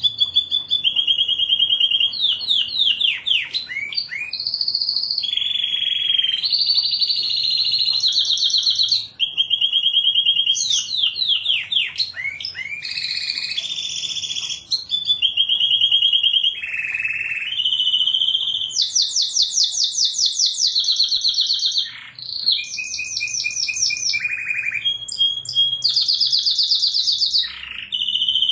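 Domestic canary singing a long, nearly unbroken song of fast trills. Each phrase is one high note or sweep repeated rapidly for a second or two before the bird switches to the next.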